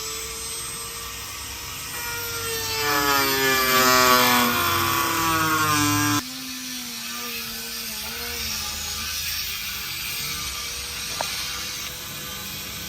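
A power tool whining, its pitch sliding down as it loads up and growing louder, then cut off suddenly about six seconds in. A fainter, lower whine and a single click follow.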